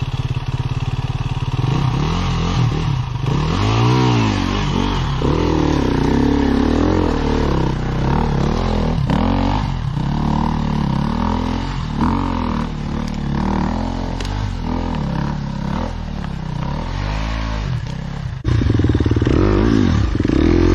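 Enduro dirt bike engine revved hard and eased off again and again, its pitch rising and falling with the throttle. About eighteen seconds in the engine sound jumps suddenly louder.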